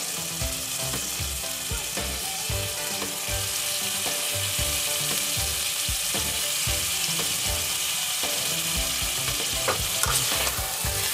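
Onion-tomato masala sizzling steadily in a kadhai as boiled cauliflower florets are dropped in piece by piece, with scattered soft knocks. Near the end a slotted spatula starts stirring.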